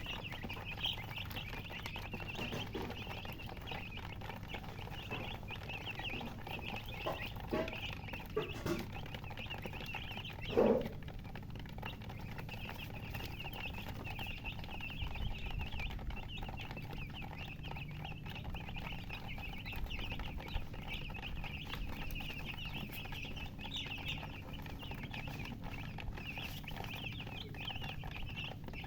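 Many baby chicks peeping continuously, their high-pitched cheeps overlapping, a cry the uploader puts down to thirst for drinking water. About ten seconds in comes a brief, louder, lower-pitched sound.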